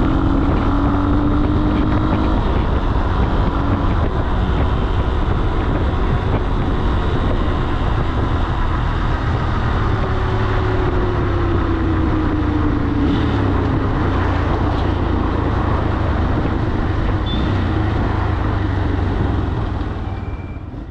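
Falat 200 cc single-cylinder motorcycle engine running under way, with heavy wind and road noise. The engine note dips about halfway through, and the sound fades out near the end.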